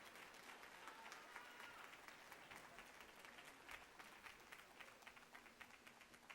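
Faint audience applause, thinning out into scattered claps toward the end.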